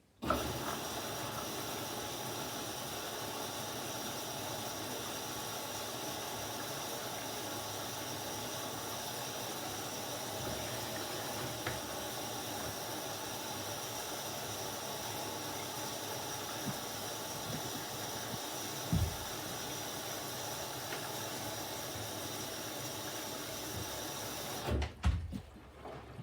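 Candy washing machine filling with water at the start of its Mix Power System + phase: the inlet valve opens with a sudden steady hiss of water rushing in, which cuts off sharply after about 25 seconds, with a few low knocks near the end.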